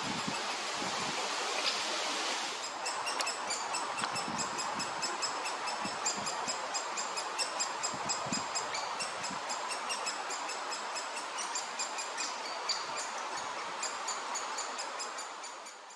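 Great spotted woodpecker chicks begging at the nest: a rapid run of short, high-pitched calls, several a second, starting about three seconds in over a steady hiss of background noise, then fading out at the end.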